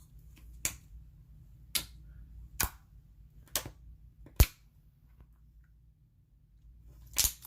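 Clear-base metallic slime being pressed and played with, giving sharp pops about once a second, five of them, the loudest about four and a half seconds in, then a longer wet squelch near the end.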